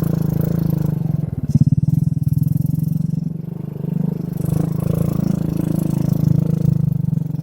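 Small motorcycle engine running under way, its pulsing note swelling and easing with the throttle, loudest about a second and a half in. Heard muffled through a phone carried in a shirt pocket.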